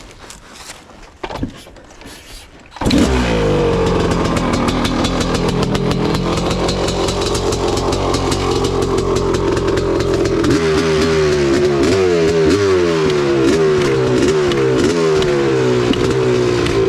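Kawasaki KX500's single-cylinder two-stroke engine with an FMF exhaust firing up suddenly about three seconds in and running loud and steady. From about ten seconds in it is blipped, its pitch rising and falling repeatedly with the throttle.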